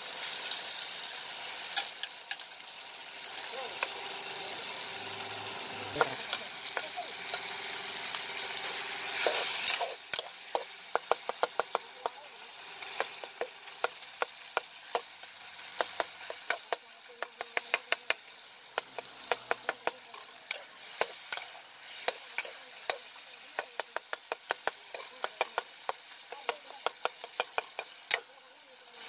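Chicken karahi frying and sizzling in a metal karahi while a metal utensil stirs it, clicking and scraping against the pan. The sizzle is loudest for about the first ten seconds. After that it drops and the frequent sharp clicks of the utensil on the pan stand out.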